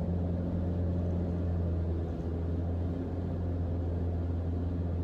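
Mooney M20J's four-cylinder Lycoming engine and propeller droning steadily in the cockpit in cruise flight, an even low hum.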